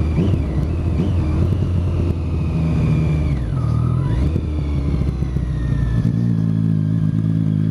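Motorcycle engine through an Arrow aftermarket exhaust, accelerating hard, with the engine note dropping and climbing again a little before halfway through, like a gear change.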